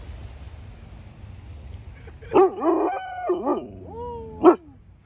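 A dog barking and yelping: a quick run of short calls about two seconds in, a longer drawn-out cry, then one sharp, loudest bark near the end.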